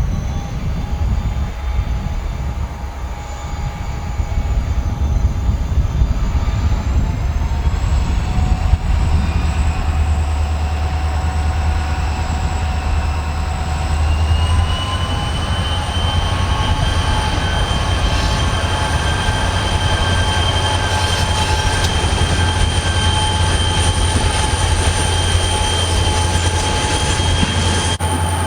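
Diesel locomotives of a shunting freight train running with a heavy low rumble, under a steady high-pitched squeal whose pitch climbs slowly and grows stronger about halfway through.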